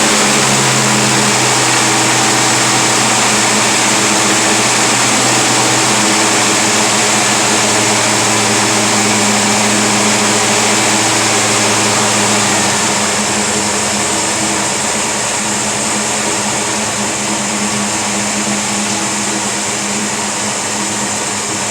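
383 cubic-inch stroker small-block Chevy V8 (400 block, 350 crankshaft) running steadily while it warms up after a cold start. About twelve seconds in, the engine note drops a little and settles into a slightly quieter steady run.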